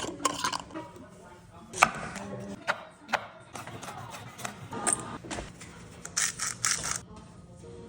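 Food-preparation handling sounds: a series of sharp knocks and clicks, the loudest about two seconds in, with a short hissing stretch near the end.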